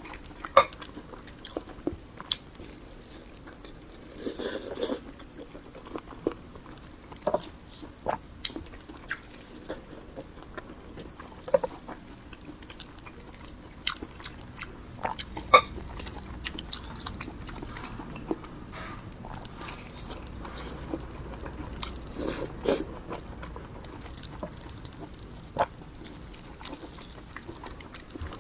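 Close-miked eating sounds: a person biting and chewing food, with many scattered sharp mouth clicks and smacks and two longer crunchy bursts, one a few seconds in and one near the end.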